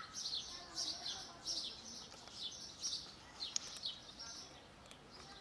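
Birds chirping: a steady run of short, high, falling chirps, about two a second.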